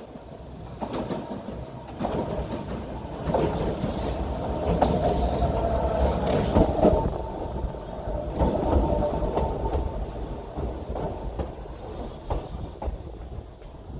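Yokkaichi Asunarou Railway narrow-gauge train running, heard from on board: wheels clicking over rail joints, with a whine through the middle that fades out toward the end.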